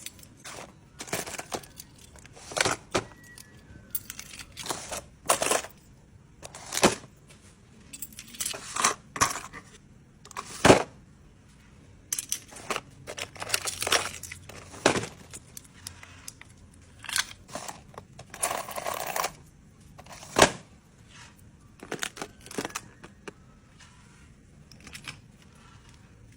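Handling and unboxing noises from a safety keychain set and its packaging: irregular clicks, rustles and clinks, some sharper than others, with short pauses between them.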